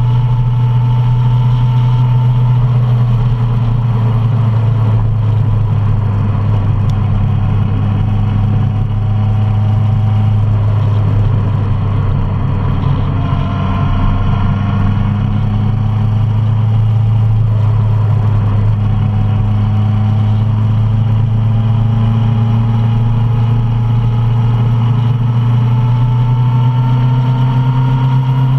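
Suzuki Bandit 650 motorcycle's inline-four engine running steadily on the road, its note easing slightly about halfway through and picking up again.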